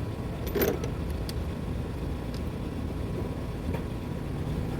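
Plastic air intake duct being refitted in a car's engine bay: a knock about half a second in, then a few light clicks and taps, over a steady low rumble.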